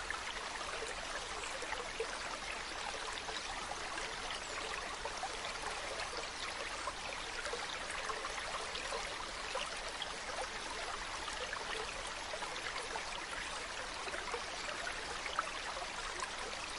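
Mountain stream running over rocks: a steady rush of water with small splashes and trickles, even throughout.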